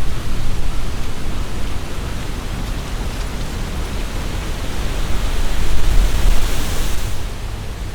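Strong wind gusting through trees: leaves rustling, with a low rumble of wind buffeting the binaural microphone. A gust swells to its loudest about six seconds in, then dies down suddenly about a second later.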